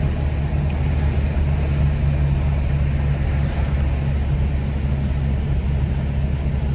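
Steady road and engine noise heard inside a moving car's cabin: an even low rumble that does not change.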